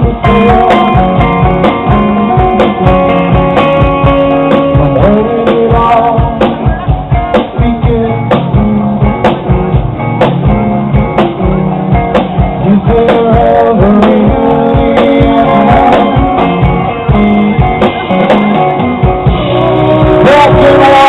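Live rock band playing: a steady drum beat under guitar and bass, with a melodic line bending in pitch. It grows louder and fuller near the end.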